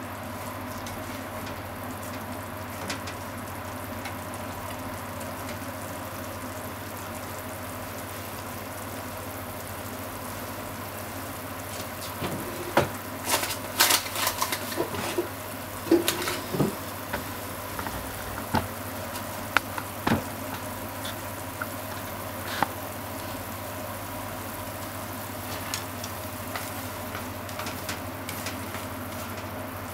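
Ground pork simmering and sizzling steadily in a shallow pool of liquid in a frying pan. About midway, chopsticks knock and scrape against the pan in a run of sharp clicks.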